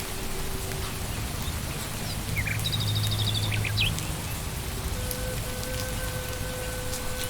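Steady rain falling in a forest, an even hiss dotted with individual drops tapping. A bird trills and chirps briefly in the middle.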